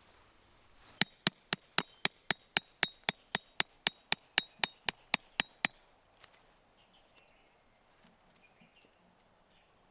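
A rapid, even run of about eighteen sharp clicks, close to four a second, that stops suddenly after about five seconds.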